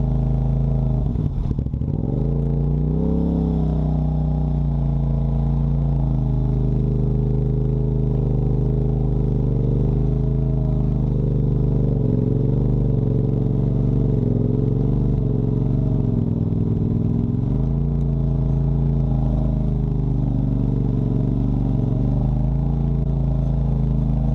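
Off-road vehicle engine running, its revs rising and falling with the throttle. The revs drop sharply and climb back about a second and a half in, and sag again briefly past the middle.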